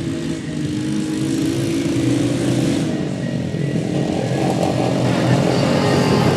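Motorcycle engines running on a dirt track, one growing louder about halfway through as it comes closer.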